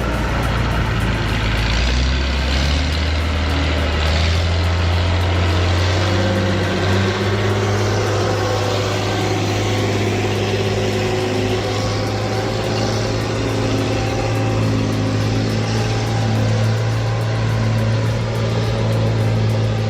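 Heavy machine's engine running steadily under load, its low drone stepping up in pitch about six or seven seconds in.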